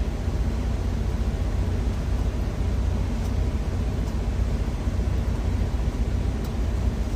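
Steady low rumble of an idling engine heard inside a truck cab, with a few faint clicks.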